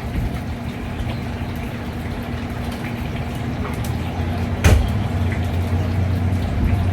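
A steady low mechanical hum over a hiss like running water, with one sharp knock about two-thirds of the way through; the hum grows stronger after the knock.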